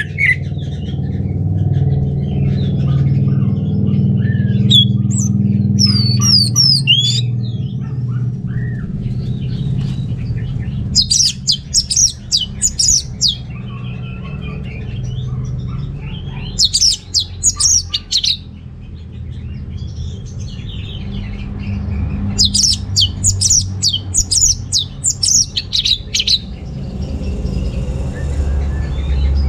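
Orange-headed thrush singing: bursts of rapid, high, varied chattering notes with whistled glides, coming in three long bouts in the second half, the last the longest. A steady low rumble runs underneath.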